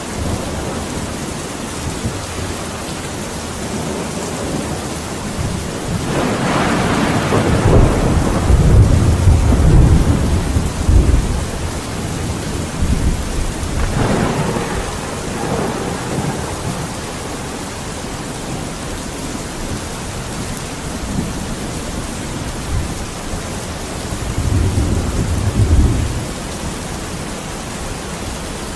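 Steady rain with rolling thunder. A long rumbling peal starts about six seconds in and is the loudest part. A second, sudden peal comes about halfway, and a lower rumble comes near the end.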